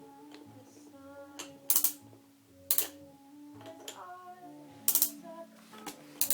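Hard plastic toy fire engine clacking sharply about four times, irregularly, as it is handled, with a faint tune of short notes underneath.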